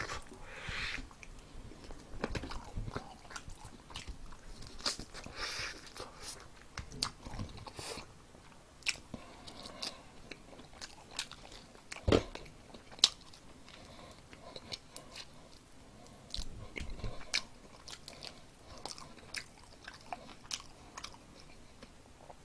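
A person biting and chewing fried chicken close to the microphone, with irregular crunches and wet clicks of the mouth. A louder knock comes a little past halfway.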